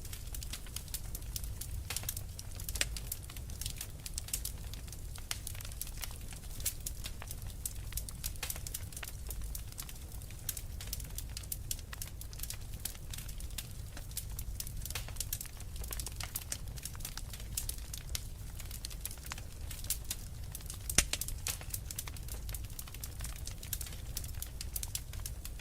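Wood fire crackling and popping, dense irregular snaps over a steady low rumble, with one louder pop about 21 seconds in.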